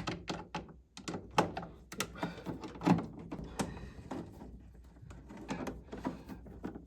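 Irregular clicks and knocks of hand tools and furnace parts being unfastened and handled, as a furnace component is taken apart to find a condensate blockage.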